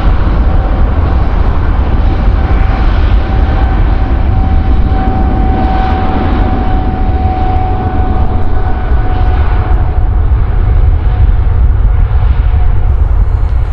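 Jet airliner's engines passing close: a loud, steady rumble with a whining tone over it that fades out about ten seconds in.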